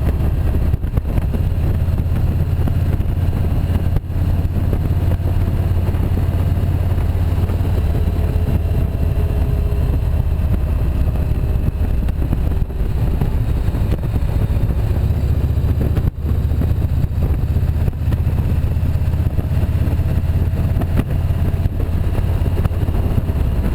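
Motorcycle engine running steadily on the move, with a strong low rumble.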